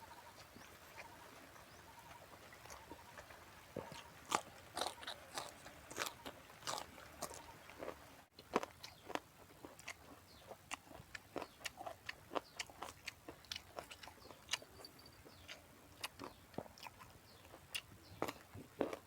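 A person chewing and crunching food close to the microphone, the crisp bites of fresh raw vegetables, in quick irregular crunches that start about four seconds in and keep on.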